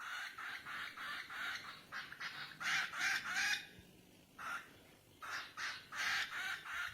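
A bird calling: short harsh calls repeated in quick runs, about three a second, with a couple of brief pauses.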